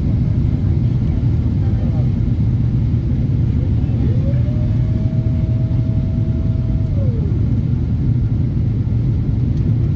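Steady low rumble of a vehicle in motion, heard from inside. About four seconds in, a tone rises, holds for about three seconds and falls away.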